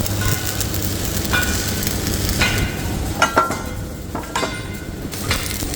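Workshop noise: a steady machine hum with irregular metal clanks and knocks, some ringing briefly, the loudest pair about three seconds in.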